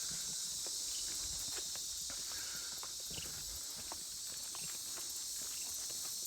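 Steady high-pitched chorus of swamp insects, with footsteps on the trail underneath.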